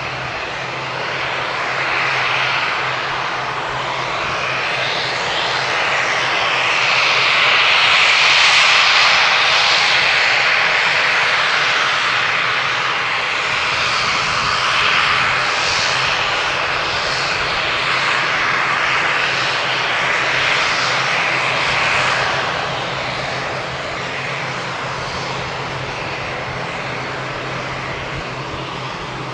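ATR42-600's Pratt & Whitney PW127M turboprop engines running as the aircraft taxis out for departure: a steady low propeller hum under engine hiss, which grows louder through the middle for a good fifteen seconds and then eases.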